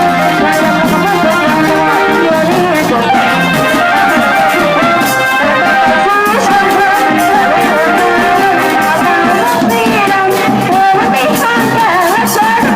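Thai brass band (trae wong) playing a loud, steady tune, with horns carrying a wavering melody over drums.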